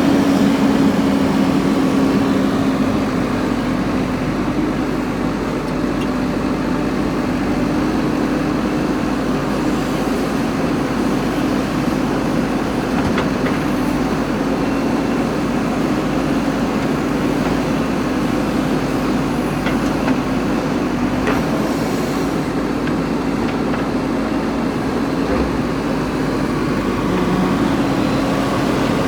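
JCB 3DX backhoe loader's diesel engine running steadily, a constant low hum at one pitch, with a few faint knocks.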